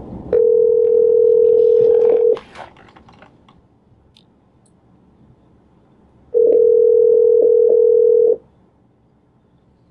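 Telephone ringback tone played through a phone's speaker: two steady rings of about two seconds each, some four seconds apart, as an outgoing call rings at the other end.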